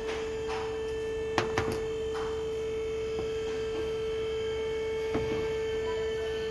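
A steady single-pitched hum holds throughout, with a few light clicks about a second and a half in and again near the end.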